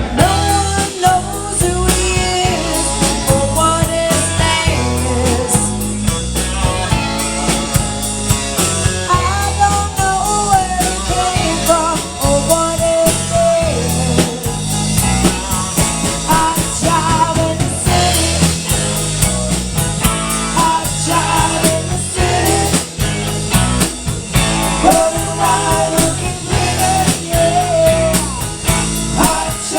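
Live rock band playing an instrumental passage: a drum kit beating steadily under bass, with a melodic lead line that bends in pitch above.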